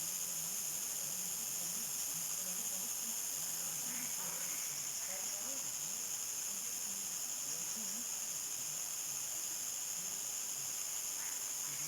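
Steady high-pitched chorus of crickets and other night insects, a continuous shrill trilling with no breaks.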